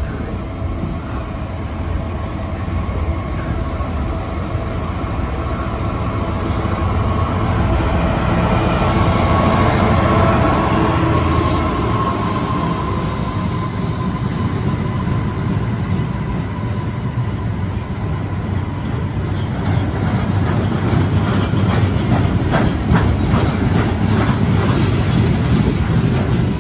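A train running along the track: a steady rumble with a faint whine, and clicking over the rails in the later part.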